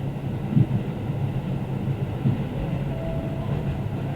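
Diesel railcar running along the track: a steady low rumble with a few short knocks from the wheels, and a faint thin tone about three seconds in.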